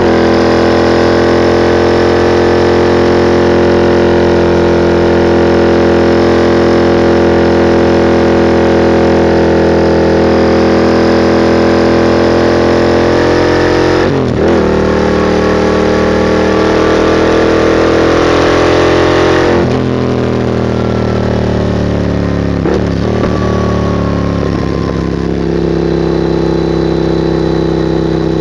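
Yamaha MT-07's 689 cc parallel-twin engine running loud through a Mivv GP straight-pipe exhaust with no catalyst, pulling hard under load. There is a gear change about halfway. The throttle closes about two-thirds of the way in and the engine falls in pitch, with a couple of short dips before it settles into steady running near the end.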